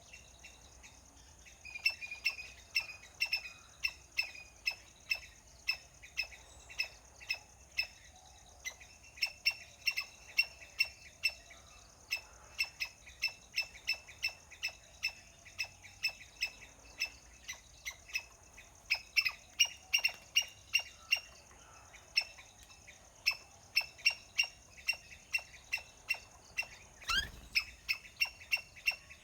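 A long series of short, sharp chirping calls from a small animal, about two to three a second, pausing briefly near the start. About 27 seconds in there is one brief rising whistle-like sweep. A faint steady high hiss runs behind the calls.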